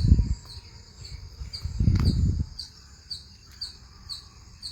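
Crickets chirping in a garden: a steady high trill with a regular pulse about twice a second. Two brief low rumbles on the microphone, near the start and about two seconds in, are louder than the insects.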